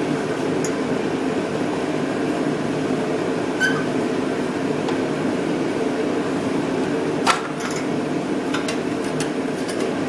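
Steady hum of shop machinery with a few light clicks from engine parts being handled as the cover is fitted back on. The sharpest click comes about seven seconds in.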